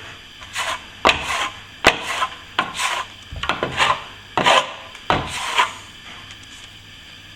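Steel plastering trowel scraping over a setting plaster skim coat in about nine short strokes: the polishing pass that brings the finish up smooth. The strokes stop about six seconds in.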